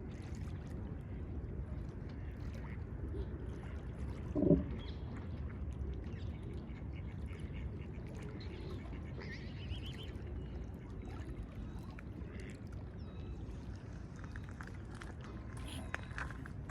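Geese on a river: one short, loud call about four and a half seconds in, over a steady low background rumble, with a few faint high chirps later on.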